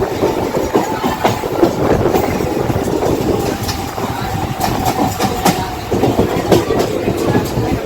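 Mumbai suburban electric local train running, its wheels clattering over the rail joints, with a faint steady whine over the rumble.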